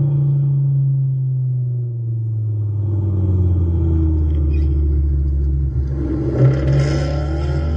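2013 Mustang GT's 5.0 L V8 idling through a catless x-pipe and Roush axle-back exhaust. Its idle settles lower in pitch over the first couple of seconds, and there is a short rise in revs about six and a half seconds in.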